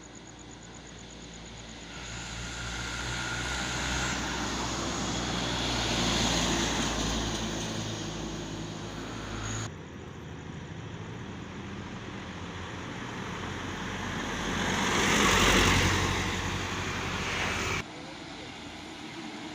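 Trucks driving past, engine and tyre noise swelling to a peak and fading away twice, with abrupt cuts about ten and eighteen seconds in.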